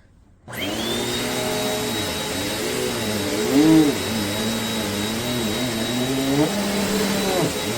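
A 720 W Amazon Basics upright bagless vacuum cleaner switched on about half a second in, its motor whine climbing to a steady high pitch over the rush of suction. The lower running note wavers up and down as it works a shag rug, where the suction is too strong and holds the head so it won't go forward.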